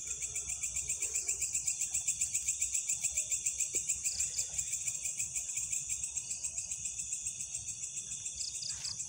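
Crickets and other insects chirping, with a loud pulsing trill of about six pulses a second over a steady high-pitched insect drone; the trill fades toward the end.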